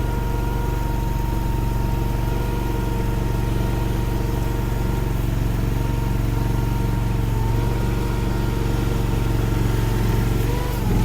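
Derette DRT450 mini skid steer's engine running steadily while plowing snow, with a steady high whine over it. Near the end the pitch dips briefly and recovers.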